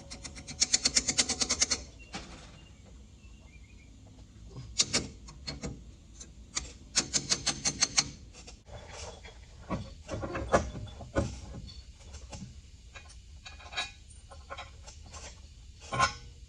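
Two quick runs of sharp clicks, about ten a second, with scattered single knocks between them: tool work on metal.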